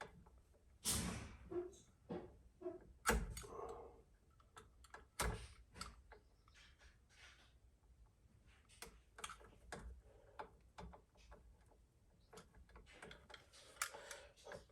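Irregular clicks, scrapes and a few louder knocks of hand tools and electrical wire being handled while insulation is peeled back from a ground wire. The louder knocks fall in roughly the first five seconds.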